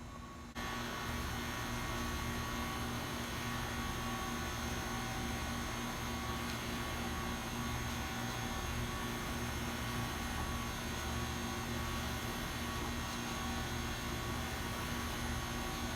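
A steady electrical hum with a rushing hiss, cutting in abruptly about half a second in and holding unchanged.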